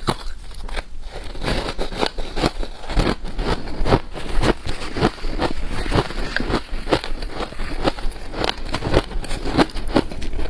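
Freezer frost being bitten and chewed: a close, steady run of crisp, irregular crunches, several a second.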